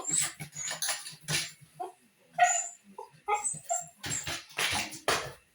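Dogs whimpering and yipping in short high calls, among short noisy bursts of scuffling.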